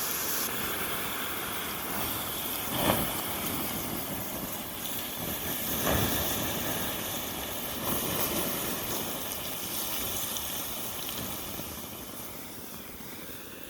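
Campfire hissing and steaming as water is poured onto the burning coals, with a few brief swells, dying away near the end.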